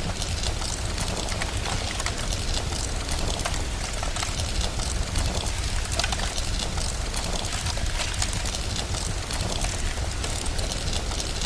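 Steady rain mixed with the crackle of a wood fire: an even hiss with many small, sharp crackles and a low, continuous rumble underneath.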